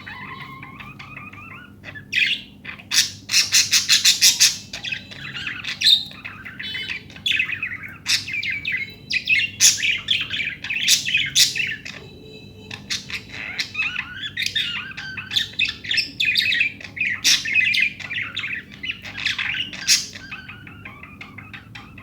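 Pet budgerigars chattering: a fast, broken run of short chirps and warbles, with brief pauses.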